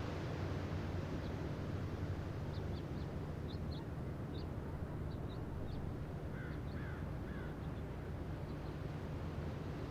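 Steady outdoor background noise, a low rumble with a hiss over it, with faint high bird chirps scattered through and three short bird calls, each falling in pitch, a little past the middle.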